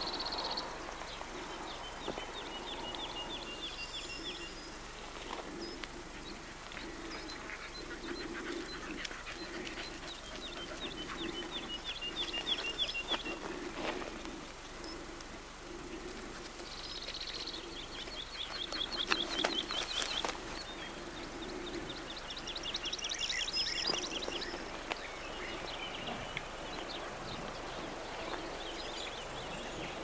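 Songbirds singing: one repeats a short high phrase ending in a fast trill every few seconds, over a low call that pulses about once a second. A few sharp clicks come about two-thirds of the way through.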